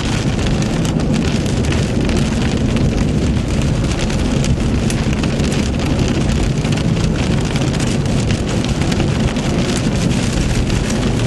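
Heavy rain pelting a moving car, a dense patter of drops striking the body and glass over the steady low rumble of the car's engine and tyres.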